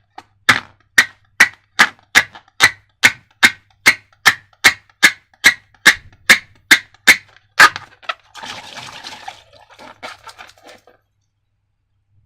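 Slime being worked by hand in a steady rhythm, giving sharp wet clicks about two and a half times a second, then a brief crackling rustle about 8 s in.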